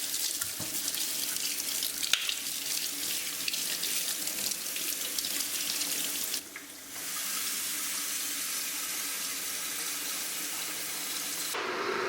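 Water running from a tap into a sink as a steady rush. It stops briefly about six seconds in, runs again, and takes on a lower, fuller tone near the end.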